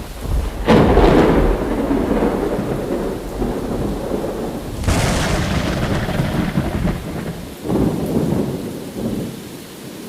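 Thunder rumbling over a steady noisy bed, in three peals that come on suddenly, about a second, five seconds and nearly eight seconds in. The last peal dies away toward the end.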